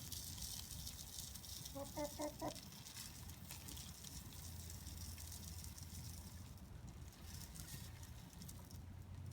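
Domestic hens clucking: a quick run of three or four short calls about two seconds in, over a faint steady low hum.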